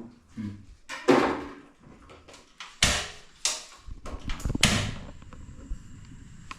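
Kitchen handling noises: about four sudden knocks and scrapes, roughly a second apart, with some low rumbling in the middle.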